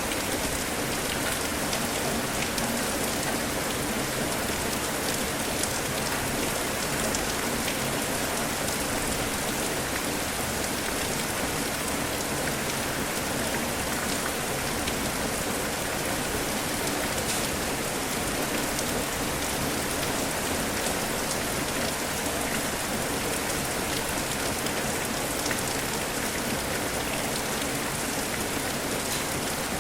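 Steady rain falling: an even, unbroken hiss with scattered faint ticks of individual drops.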